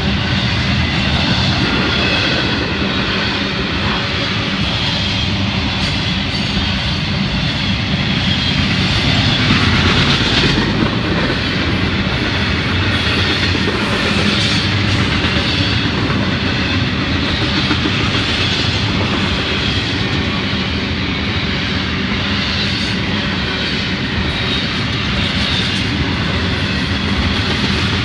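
Cars of an intermodal freight train rolling past, including double-stack container well cars and trailers on flatcars: a steady noise of steel wheels running on the rails.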